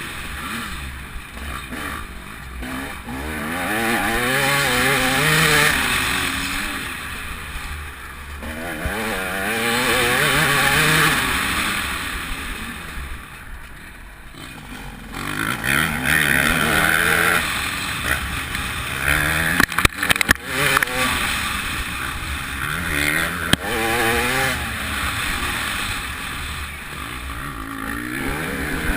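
TM 300 two-stroke motocross bike's engine revving hard and backing off in repeated surges as it is ridden around the track, its pitch climbing and falling every few seconds. A few sharp knocks come about two-thirds of the way through.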